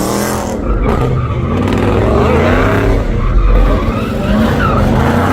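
Car engines revving hard with tyres squealing and skidding, pitch rising and falling as the cars spin on the pavement.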